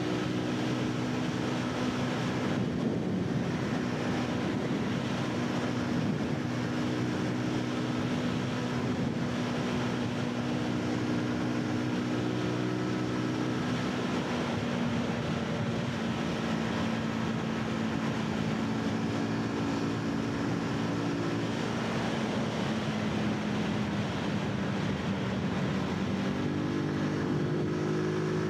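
Zontes 125 motorcycle's single-cylinder engine running steadily under way, over a constant rush of wind noise. The engine pitch eases down a little past the middle and climbs again near the end.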